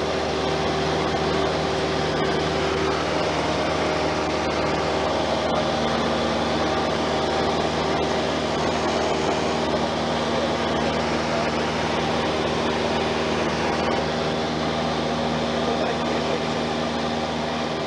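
Steady drone of a Cessna light aircraft's piston engine and propeller heard inside the cabin in flight, holding an even pitch.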